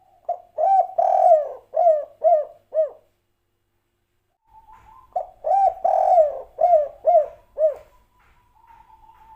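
Spotted dove (tekukur) of the 'kuk 3' song type cooing: two loud song phrases of about five or six quick coos each, the second beginning about halfway through.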